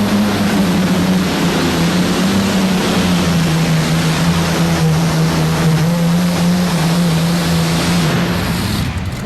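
Twin Allison V12 aircraft engines of a modified pulling tractor running hard under load during a pull, a loud steady drone. The pitch drops slightly about three seconds in, and the engines cut off near the end.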